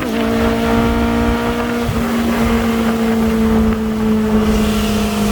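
Honda four-cylinder sports-car engine running at steady, fairly high revs. Its pitch steps down slightly about two seconds in and then sags slowly.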